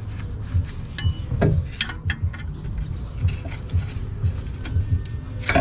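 Scattered light metal clicks and taps from handling the steel exhaust pipe and connector, with one short metallic ping about a second in, over a low uneven rumble.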